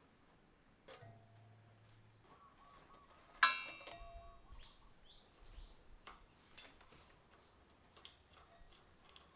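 Metal tools and parts clinking and being handled, with one sharp, loud metallic clink that rings briefly about three and a half seconds in. A short low hum sounds about a second in.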